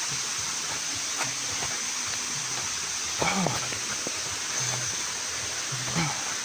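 Steady rushing of a waterfall, with two short pitched calls rising above it, about three and six seconds in.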